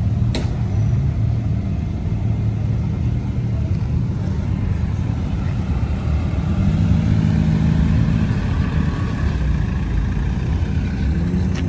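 A car engine running at a steady idle, its low hum holding even, with a single sharp click about half a second in.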